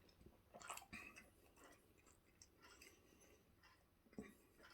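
Near silence, with a few faint clicks and soft noises from someone eating a thick-pastry slice, about a second in and again near the end.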